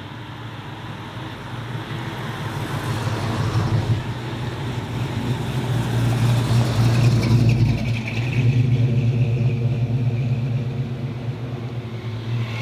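A car engine running at low revs as the car pulls away, a deep steady note that grows louder toward the middle, drops briefly about eight seconds in, then carries on steadily.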